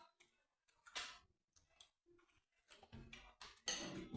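Faint clicks and small knocks from eating at the table: one about a second in, then several in quick succession near the end.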